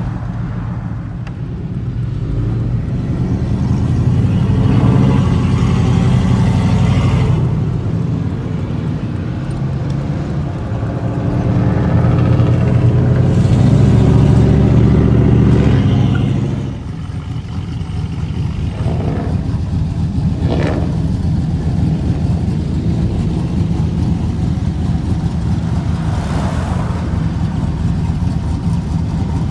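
Motor vehicle engine running with a loud low rumble. It grows louder twice, then drops back suddenly about seventeen seconds in and runs on steadily.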